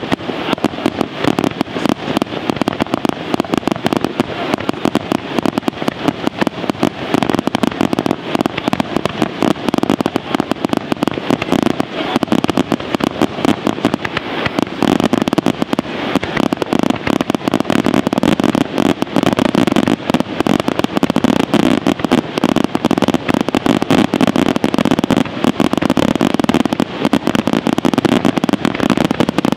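Fireworks display: a dense, unbroken barrage of bursts and crackling reports, many per second, getting a little heavier about halfway through.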